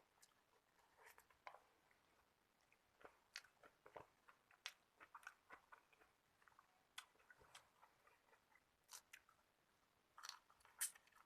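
A person chewing and crunching a meal of shrimp and vegetables: faint, irregular crunches and sharp little clicks, with a cluster of louder crunches near the end.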